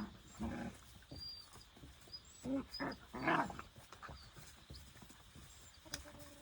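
Puppies in kennels whining and yipping in short calls, about three of them, the loudest about three and a half seconds in.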